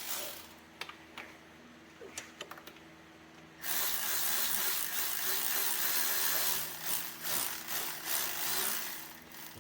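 Powered ratchet running for about five seconds, spinning down a cylinder head bolt on an LS engine, after a few light clicks of tool handling.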